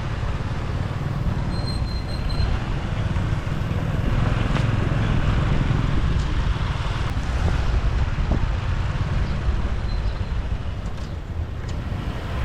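Motorbike riding through city traffic: a steady low rumble of engine, road and traffic noise that swells a little in the middle.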